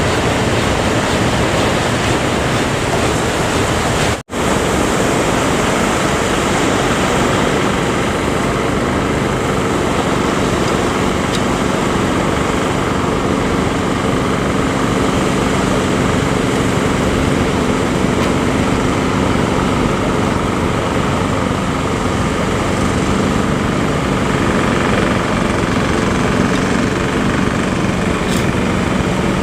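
A boat engine droning steadily under the constant rush of surf and wind, the engine's hum clearer in the second half. The sound cuts out for an instant about four seconds in.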